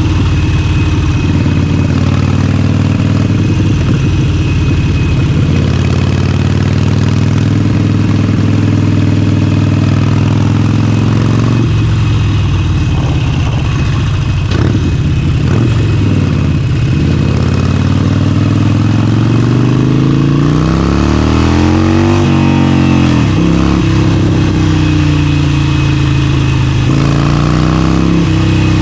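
Harley-Davidson Forty-Eight's 1200 cc air-cooled V-twin running under way: steady at first, then revving up. Its pitch drops sharply about two-thirds of the way through as it shifts up, then climbs again.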